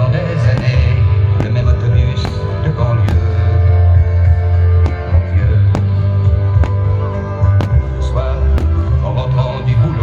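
The show's music plays loudly with a heavy bass, and sharp firework bangs and pops burst out irregularly over it, about a dozen times.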